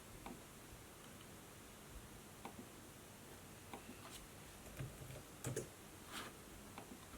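Sparse, irregular light clicks and taps from laptop and notebook work, over a low steady hiss, with a brief rustle about six seconds in.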